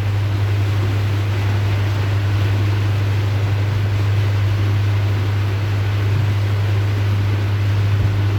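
Houseboat's engine running steadily under way: a constant low hum with an even hiss over it.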